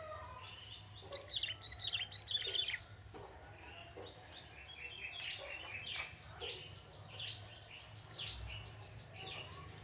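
Young male ciblek tebu, a prinia, singing busily: a fast run of high, quick chirping notes about a second in, then a looser string of sharp chirps through the rest, over a steady low background hum.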